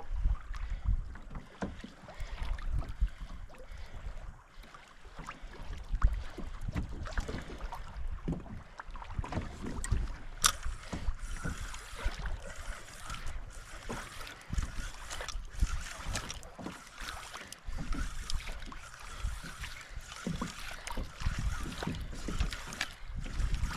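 Water lapping and slapping against a plastic kayak hull, with wind gusting across the microphone and scattered small knocks and clicks.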